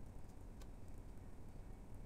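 Hot and sour soup simmering in a pot: a faint low rumble with a few small ticking pops, one clearer tick about half a second in.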